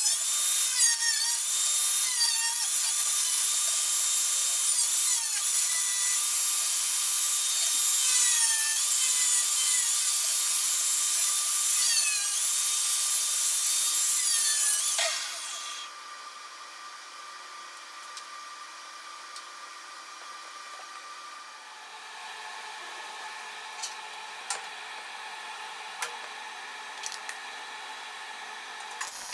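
Power tool running hard, its pitch dipping repeatedly as it bites under load, then switching off and winding down about halfway through. After that comes a quieter steady hum with a few sharp clicks.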